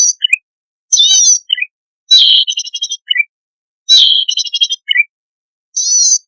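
Cisticola song: a short buzzy note followed by one or two brief chirps, repeated about once a second, some phrases ending in a rapid ticking run.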